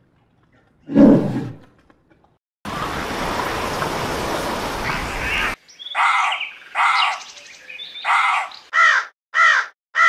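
A brown bear's short growl about a second in, then about three seconds of steady hiss-like noise. Then a run of harsh caws from common ravens, about six calls, coming faster toward the end.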